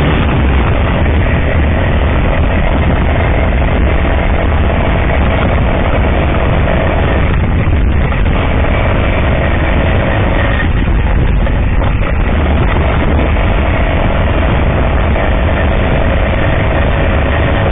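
Kovrovets K-58 motorcycle's 125 cc single-cylinder two-stroke engine running steadily, with no change in pace.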